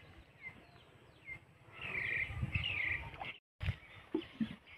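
Birds chirping in short calls, with two longer trilling calls about two and three seconds in, over low thumps. The sound cuts out completely for a moment past the middle.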